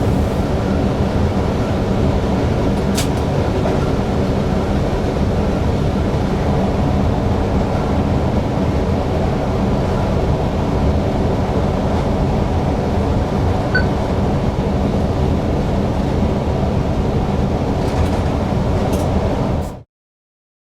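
Steady rumbling running noise inside the driver's cab of a Newag Impuls EN63 electric multiple unit, with a low hum and a few faint clicks. The sound cuts off abruptly near the end.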